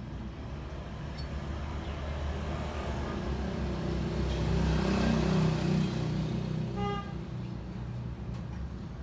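Motor vehicle engine running with a low rumble as a vehicle passes, growing louder to a peak about halfway through and then fading. A short horn beep sounds about seven seconds in.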